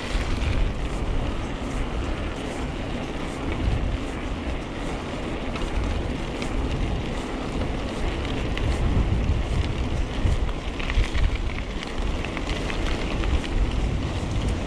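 Wind rumbling on the microphone, mixed with the rattle and clatter of a mountain bike riding a rough trail; the sound is dense and steady, with small knocks throughout.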